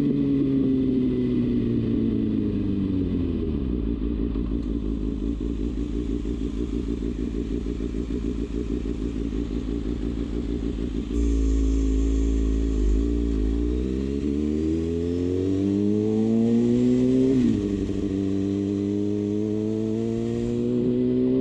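Kawasaki Ninja ZX-6R inline-four engine: the revs fall away to a steady low idle for several seconds. It then pulls away with the revs climbing, drops sharply at an upshift about three-quarters of the way in, and climbs again in the next gear.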